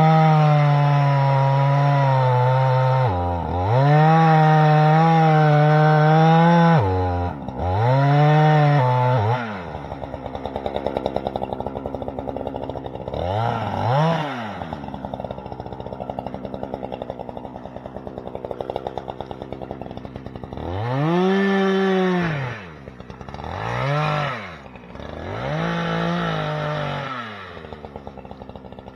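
Chainsaw at full throttle in long steady runs, dropping briefly about three and seven seconds in, then falling to a ticking idle around ten seconds. The throttle is blipped once at about fourteen seconds and several more times from about twenty-one seconds on.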